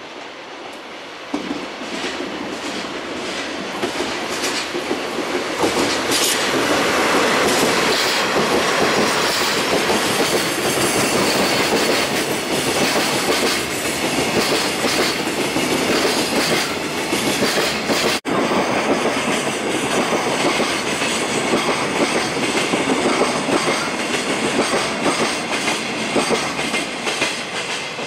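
Freight train passing: a pair of JR Freight DD51 diesel-hydraulic locomotives draws near and goes by, followed by a long run of empty Koki container flatcars rumbling and clattering over the rail joints. The sound builds over the first few seconds and stays loud, with a brief dropout about two-thirds of the way through.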